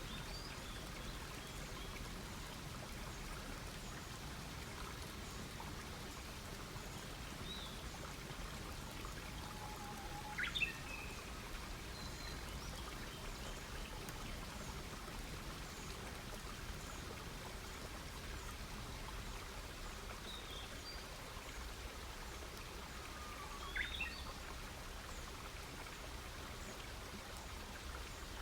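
Wood campfire crackling steadily, with two louder sharp sounds, one about ten seconds in and another later on. Small birds chirp faintly now and then in the background.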